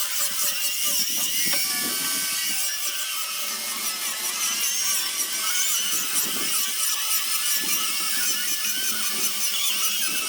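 Power sander working sandpaper over a zelkova wood basket: a steady high-pitched whine with a rasping scrub that wavers as the tool moves over the wood.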